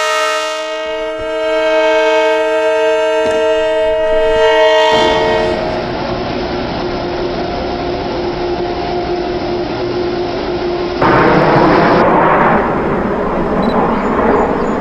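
Nathan K5LA five-chime air horn on an LIRR DM30AC diesel locomotive sounding one long chord that cuts off about five seconds in. After it comes the steady rumble of the passing train, which gets suddenly louder about eleven seconds in.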